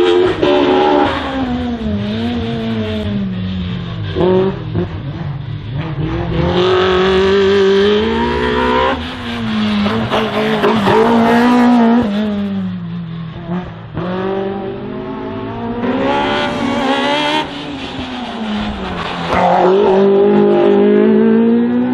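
Race car engine revving hard and dropping off again and again, about four or five rises in pitch, as the car accelerates and brakes between the cones of a slalom course.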